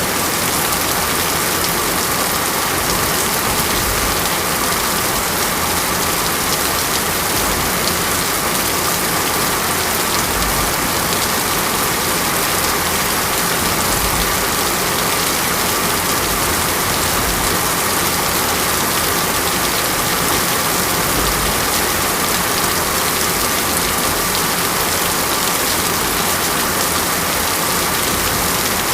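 Steady heavy rain falling on a surface, a constant even hiss of drops.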